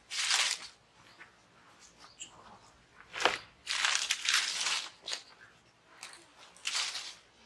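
Several short bursts of crunching and rustling, with a sharp crack a little past the middle.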